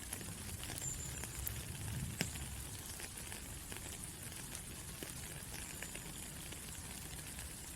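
Steady rain falling, an even hiss with many small scattered drop ticks and one sharper tap about two seconds in.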